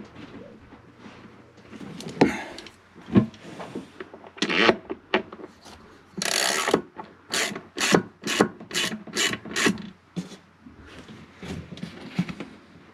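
Hacksaw cutting down a toilet closet bolt that sticks up too tall, in short rasping strokes: a few irregular strokes, then a steady run of about seven quick strokes a couple of times a second in the middle, easing off near the end.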